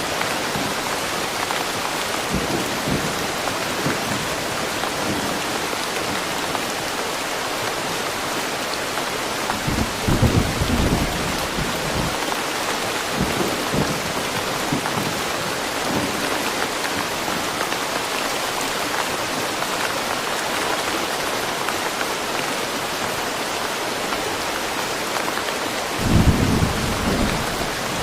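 Steady rain falling in woodland, an even hiss of many drops on surfaces. Two brief low rumbles break through, about ten seconds in and near the end.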